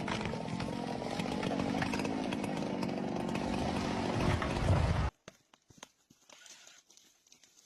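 Chainsaw running and cutting, getting louder just before it cuts off abruptly about five seconds in, leaving near silence with a few faint clicks.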